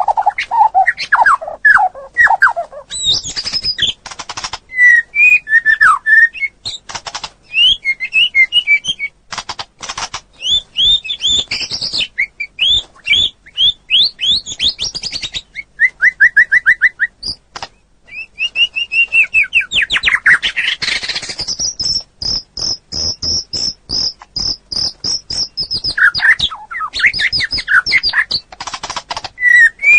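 A songbird singing a long, fast, varied song of whistled sweeping notes, sharp clicks and rapid trills, with a high, even trill in the second half.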